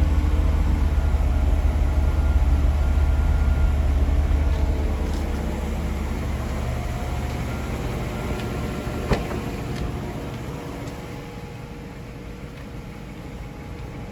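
Mercedes-Benz SL600's V12 engine idling after a cold start, its low exhaust rumble getting gradually quieter through the second half. A single sharp click about nine seconds in.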